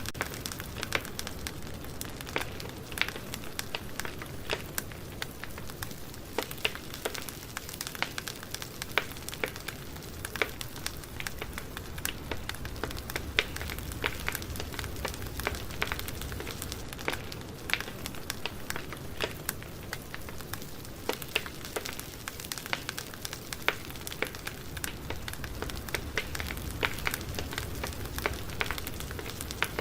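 Campfire burning with a steady low rumble and frequent scattered crackles and pops of burning wood.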